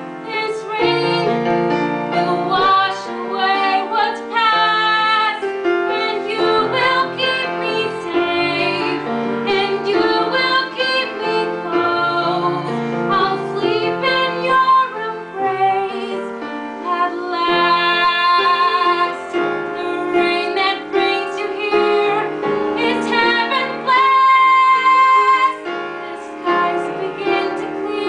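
A female voice singing a song with piano accompaniment, holding long sustained notes.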